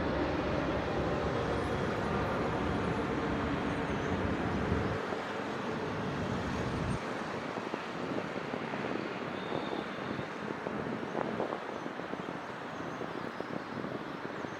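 Distant city road traffic: a steady wash of vehicle noise. A deep low rumble from a heavy vehicle or engine sits under it and drops away about seven seconds in.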